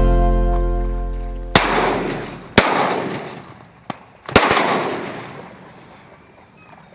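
Four shotgun blasts fired at ducks, two close together, a fainter one, then a loud one. Each leaves a long echoing tail. A guitar chord from the music fades out just before the first shot.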